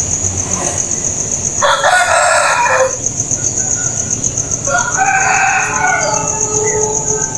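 Two loud bird calls, each lasting a second or more, about three seconds apart, over a steady, pulsing high-pitched buzz.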